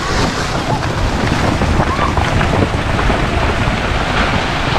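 Steady rush of wind buffeting the microphone, with faint voices in the background.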